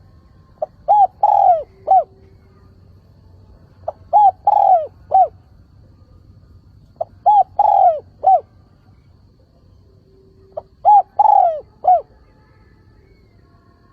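Spotted dove cooing its calling song four times, about every three seconds. Each phrase is a short note or two, a longer falling coo and a short closing note. This is a decoy bird's call, used to draw wild doves in and rouse them to call back.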